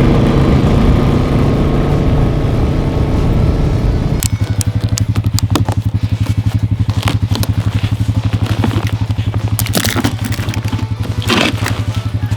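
Four-wheeler (ATV) engine running hard, then dropping to a steady pulsing idle about four seconds in, with scattered clicks and scrapes over it.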